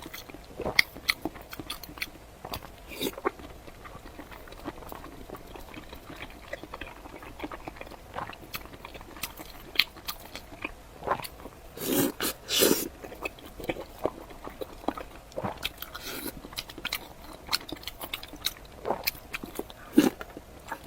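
Close-miked mukbang eating: a person biting and chewing food, with many small wet clicks and crunches and two louder bursts of chewing about twelve seconds in.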